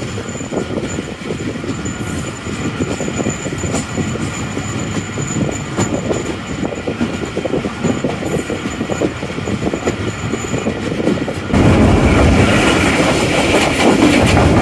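Express passenger train running at speed, heard from inside a coach: steady rumble of the wheels on the track with irregular clicks and clatter over rail joints. About eleven and a half seconds in the noise suddenly gets louder and fuller.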